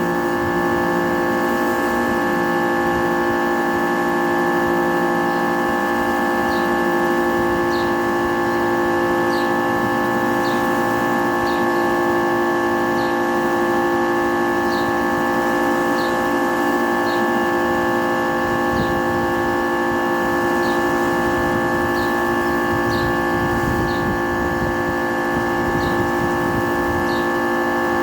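Kärcher K3.30 electric pressure washer running steadily, its motor and pump giving a constant whine, with a faint tick recurring about once a second.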